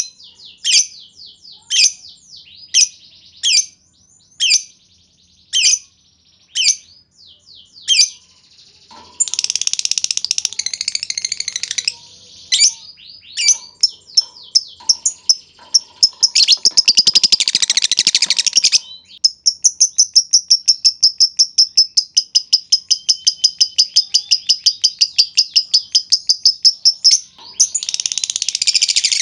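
Lovebirds calling. First comes a string of sharp single chirps, about one a second, then bursts of dense, scratchy chatter. From about two-thirds of the way in, one long, rapid, evenly paced trill is held for some eight seconds: the long 'ngekek' call that lovebird keepers prize.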